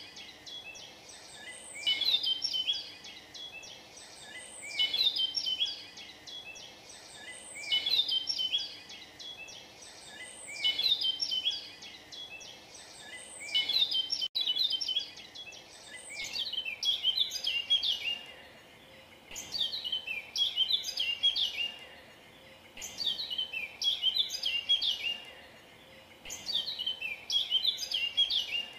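Birdsong: a songbird repeating a short, fast chirping phrase, about every three seconds at first and closer together in the second half, over a faint steady hiss.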